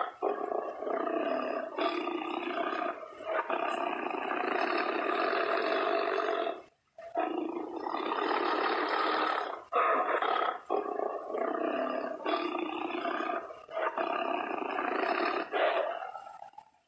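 Tiger roaring and growling in long, harsh bouts, with a short break about seven seconds in, fading out near the end.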